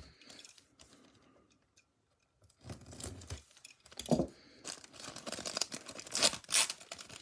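Foil wrapper of a Bowman Platinum baseball card pack crinkling and rustling as it is opened by hand, starting a few seconds in after a quiet moment.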